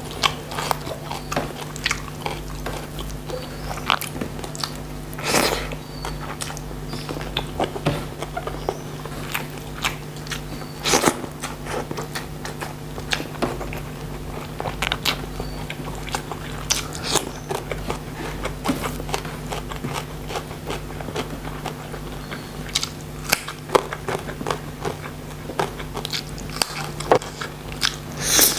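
A person chewing and biting close to the microphone, eating shrimp pesmol with raw vegetables, with irregular crisp crunches. A steady low hum sits underneath.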